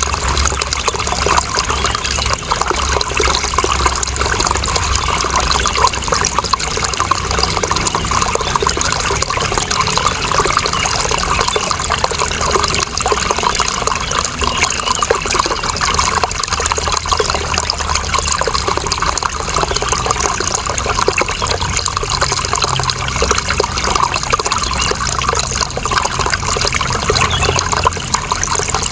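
Running water splashing and trickling steadily without a break.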